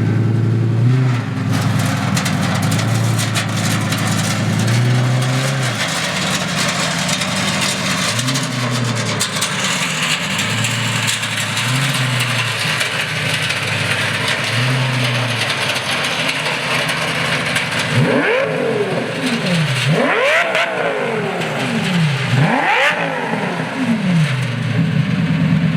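Lamborghini Gallardo V10 running extremely loud through giant cone-shaped exhaust tips: a steady idle with several short throttle blips, then about three big revs that climb and fall near the end.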